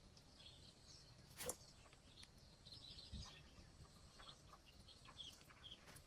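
Near silence with faint, scattered high bird chirps and one sharp click about a second and a half in.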